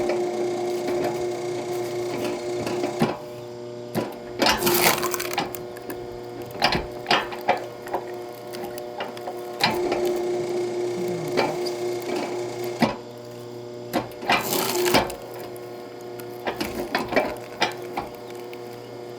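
Axe chopping and splitting firewood: irregular sharp chops a second or two apart, with two longer splintering crashes, over a steady hum.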